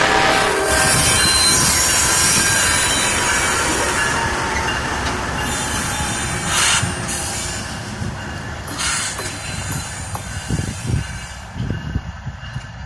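Freight train cars rolling past with steel wheels squealing on the rail, a horn blast ending about half a second in. The rolling noise fades steadily as the train draws away.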